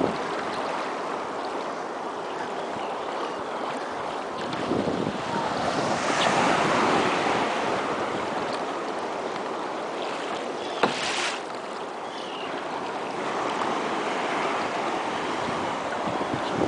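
Sea waves washing, with wind buffeting the microphone, growing louder for a few seconds about six seconds in. A single sharp click sounds about eleven seconds in.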